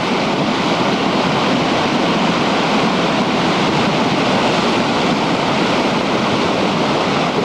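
Ventura River in high flood rushing past a levee, a steady, even noise of fast, heavy water with no breaks.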